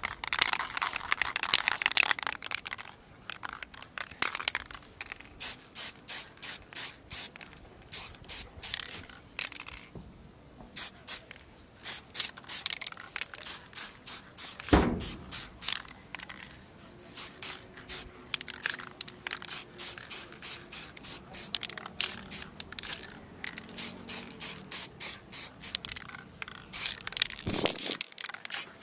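Aerosol spray can of clear top coat spraying in many short bursts, light passes that lay down a thin first coat rather than a full wet coat. One louder bump comes about halfway through.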